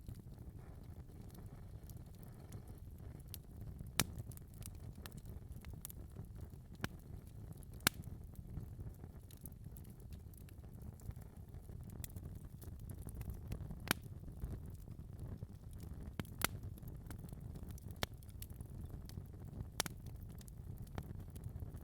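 Wood fire burning in a fireplace: a steady low rumble of flames with scattered sharp crackles and pops, the loudest about four and eight seconds in.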